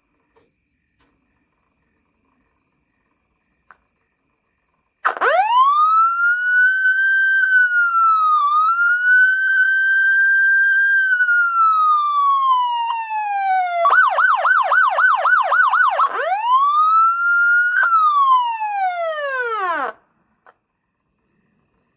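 Fire truck siren switched on about five seconds in. It starts with a rising wail that holds high and then slowly falls, switches to a fast yelp for about two seconds, wails up once more and winds down before cutting off.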